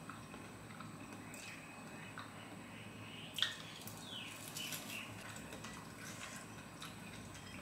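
Faint chewing of fried tahu aci, tofu with a hard tapioca-starch coating: soft wet mouth clicks and crunches, with one sharper click about three and a half seconds in.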